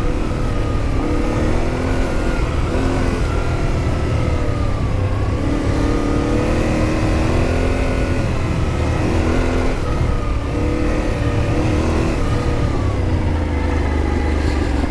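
Yamaha Ténéré 700's parallel-twin engine running under constantly changing throttle, its pitch rising and falling every second or two as the bike speeds up and slows.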